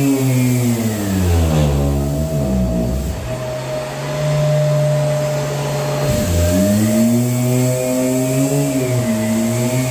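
Electric motor of a power sander running, with a vacuum-like hum. Its pitch drops steeply about a second in and dips almost to a stop, then rises back to speed about six seconds in, while a steady whine holds throughout.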